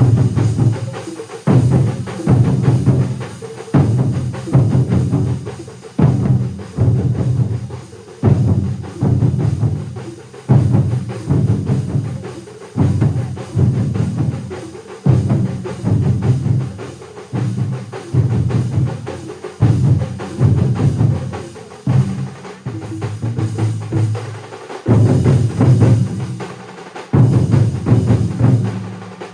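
A large drum ensemble playing together: heavy, booming strokes land about once a second, each decaying before the next, with a faster clatter of lighter beats between them.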